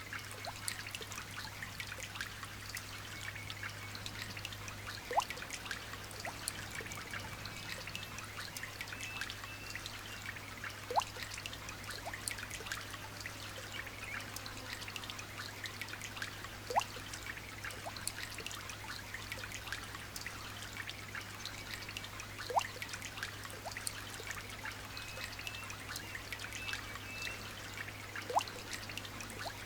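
Light rain dripping and trickling as a steady patter of small drops. A louder single drop plinks with a short rising pitch about every six seconds.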